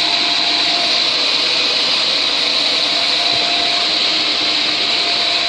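Swimming pool filter pump motor running steadily: a loud, even hiss with a faint steady whine underneath.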